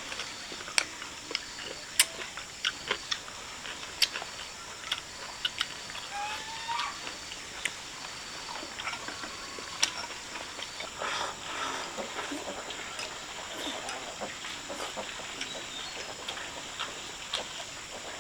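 Meal being eaten: irregular sharp clicks and taps of chopsticks against a bowl, with a short rising squeak about six seconds in.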